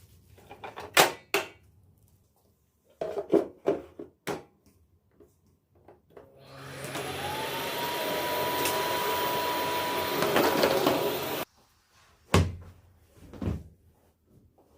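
A few knocks and clicks of things being handled, then an electric appliance motor switched on: it spins up with a rising whine that settles to a steady pitch, runs for about five seconds and cuts off suddenly, followed by two more thumps.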